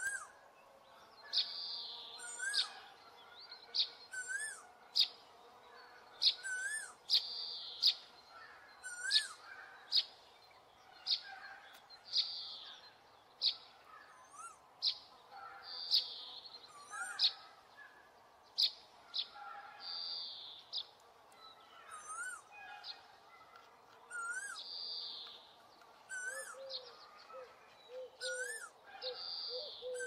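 Birds chirping and calling, short sharp chirps and higher warbling calls repeating about once a second. A lower call repeats over the last few seconds.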